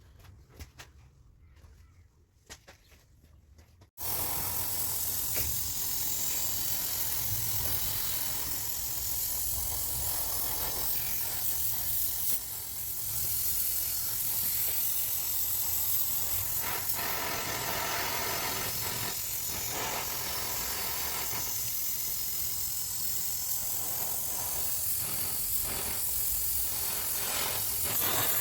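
A few faint clicks, then about four seconds in a loud, steady hiss starts abruptly and keeps going.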